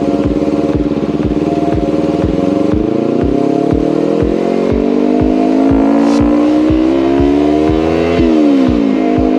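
Motorcycle engine pulling up through the revs, its pitch rising steadily for several seconds. About eight seconds in it drops sharply, as on an upshift.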